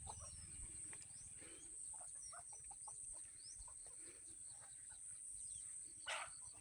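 Faint early-morning countryside ambience: a steady high insect drone with scattered short bird calls and chirps, including the clucks of fowl. A louder call comes about six seconds in.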